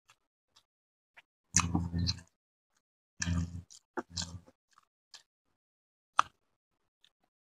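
Close-miked chewing and wet mouth sounds of a man eating rice and grilled chicken by hand: three louder chewing bursts in the middle, scattered small smacks and a sharp smack about six seconds in.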